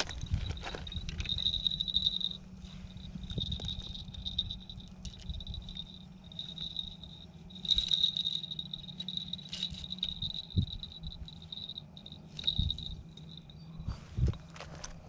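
Crickets trilling in a steady, pulsing high-pitched chorus, broken by occasional short clicks and knocks.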